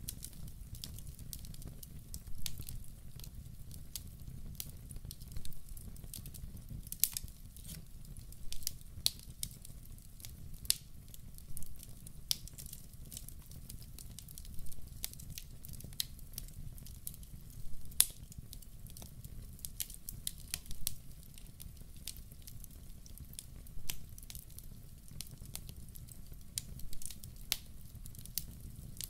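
Wood fire burning in a fireplace: frequent, irregular sharp crackles and pops from the burning logs over a low, steady rush of the flames.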